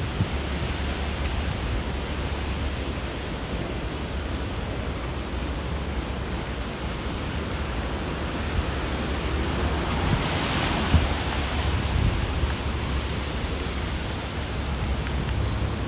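Steady storm rain and wind noise on a wet city street, with a low rumble underneath. About ten seconds in, a louder hiss swells and fades.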